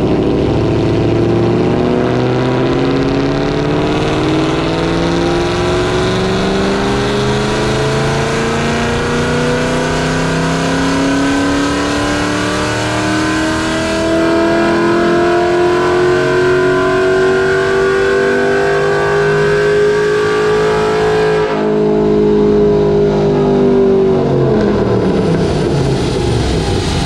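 Ford Coyote 5.0 V8, with headers and a catted exhaust, making a wide-open-throttle dyno pull on a test run with added ignition timing. The engine note climbs steadily in pitch for about twenty seconds. Near the end the throttle closes and the revs fall away.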